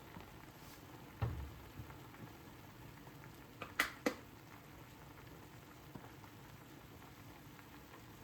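Faint liquid bubbling steadily, with a dull thump about a second in and two or three sharp clicks around four seconds in.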